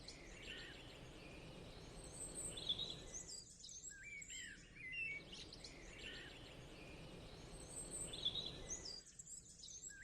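Faint birdsong: several small birds chirping and twittering over a soft background hiss, the same stretch of calls repeating about every six seconds.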